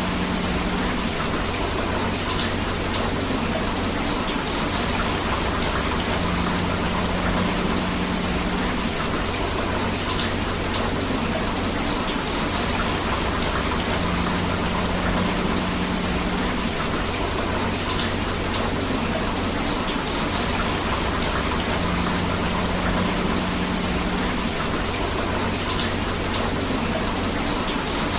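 Steady rain mixed with running river water, an even hiss with no breaks. The same short stretch repeats about every eight seconds, as in a looped recording.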